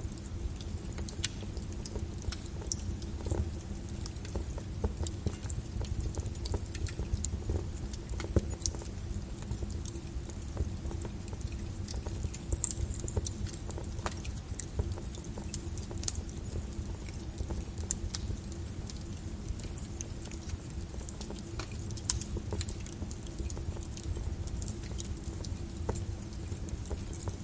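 Wood fire crackling in a fireplace: a steady low rumble with frequent small sharp pops and snaps at irregular intervals.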